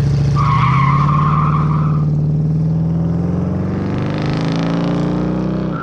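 1977 Chevy Nova's 327 small-block V8 accelerating hard, tyres squealing for the first two seconds or so. The engine note climbs steadily, then drops off sharply near the end.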